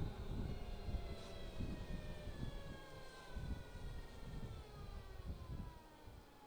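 Energica Experia electric motorcycle's motor whine: several tones gliding slowly down in pitch as the bike slows, over a low rumble of wind on the microphone.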